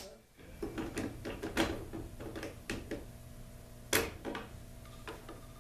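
Small clicks and knocks of a screwdriver, screws and parts against the garage door opener's housing, with one sharper click about four seconds in.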